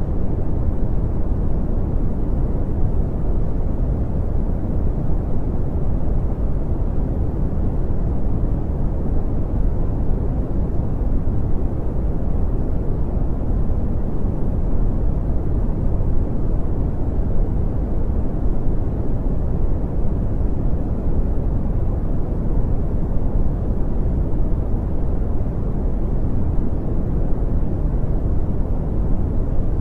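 Brown noise: a steady, even, deep rushing hiss, strongest in the low end and muffled in the highs, unchanging throughout.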